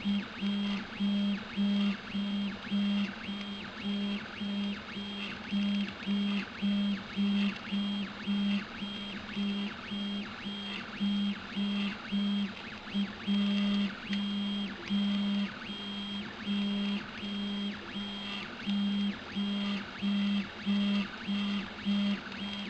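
Stepper motors of a Prusa i3-type 3D printer whining during print moves: a steady hum at one fixed pitch that starts and stops in short irregular bursts as the head changes direction.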